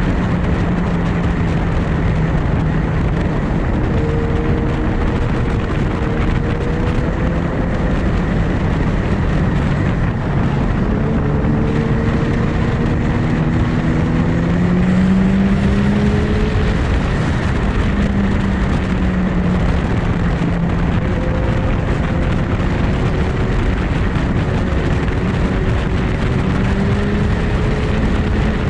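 Superbike engine running at road speed under a loud, steady rushing noise, its pitch rising and falling slowly over several seconds.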